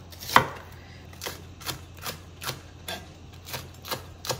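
Kitchen knife chopping on a cutting board in a steady rhythm, about two to three strokes a second, the first stroke the loudest.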